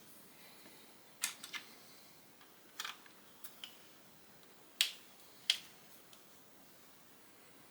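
Lego bricks being handled and snapped together: a series of short, sharp plastic clicks and taps, the two loudest a little past the middle.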